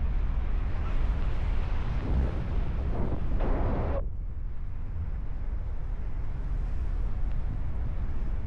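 Wind buffeting the microphone in flight, a steady low rumble. About two seconds in it swells into a louder rushing, then cuts off suddenly about four seconds in.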